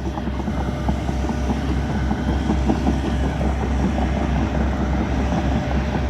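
Diesel engine running steadily, its sound weighted heavily to the low end.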